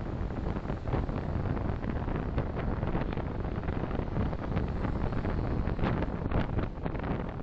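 Steady road and tyre noise of a moving car picked up by a dashcam, a low rumble with many small knocks and rattles.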